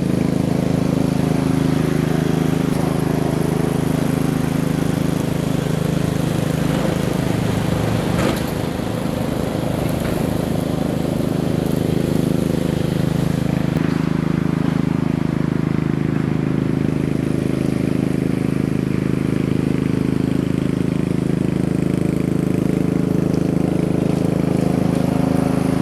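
Small gasoline engine running steadily at a constant speed, with a brief dip about eight seconds in.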